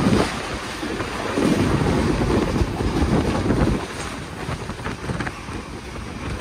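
Wind rushing past the open doorway of a moving passenger train, buffeting the microphone, over the train's low running rumble.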